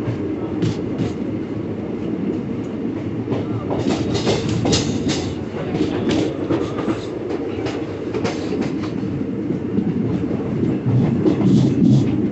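Passenger train running along the line, heard from inside a coach: a steady rumble with irregular clicks and clatters of the wheels on the rails, thickest about four seconds in.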